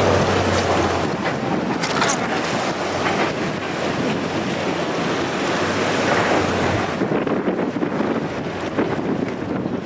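Strong wind buffeting the microphone in gusts, over the rush of surf breaking on the shore.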